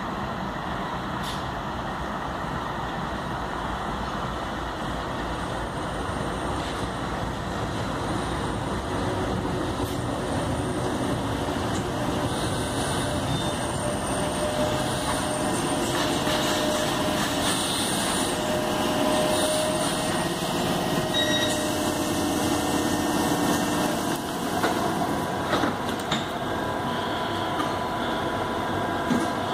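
Tyne and Wear Metro electric train running into the platform and braking to a stop. A rumble of wheels on rail grows louder, with a motor whine and high-pitched squeals in the middle. A few sharp clicks come as it halts near the end.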